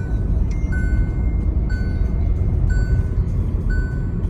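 Dashboard warning chime beeping about once a second over the steady low rumble of a Hyundai Tucson being driven, heard from inside the cabin. The engine has a misfire that sets a blinking check-engine light.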